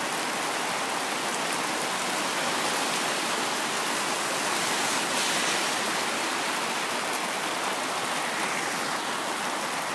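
Torrential rain pouring down, heard from under a corrugated shelter roof, a steady, unbroken hiss of falling water.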